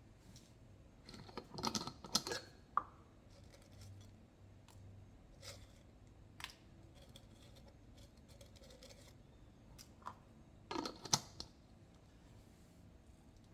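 Faint small handling sounds: short scrapes and clicks, bunched about two seconds in and again near the end, with a few single clicks between.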